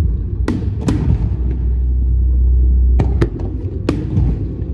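Aerial firework shells bursting: a series of sharp bangs, two about a second in and three more between three and four seconds in, over a steady low rumble.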